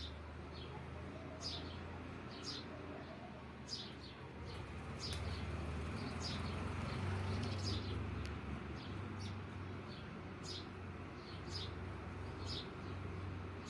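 A pet parrot chirping repeatedly, short high chirps often in pairs every second or so, over a low steady hum.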